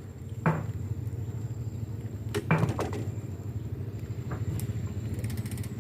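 A small boat engine running steadily, with two sharp knocks, about half a second in and about two and a half seconds in, and a few light clicks near the end.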